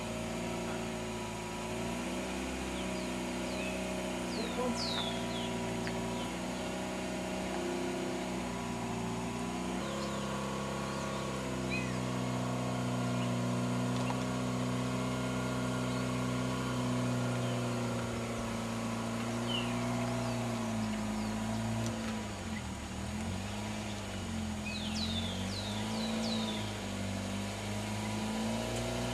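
Car engine idling steadily, its pitch shifting slightly about a third of the way in and wavering near the end. Birds chirp briefly several times over it.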